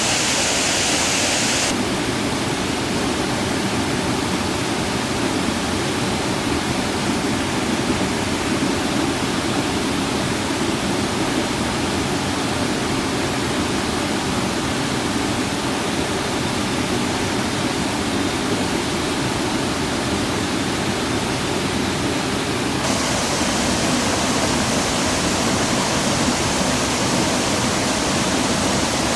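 Rushing water of a highland waterfall, a steady dense rush. Its hiss turns abruptly duller about two seconds in and brighter again near the end.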